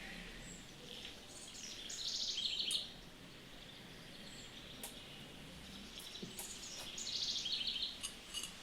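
A songbird singing two short, quick trilling phrases about five seconds apart, over steady background noise, with a few faint clicks in between.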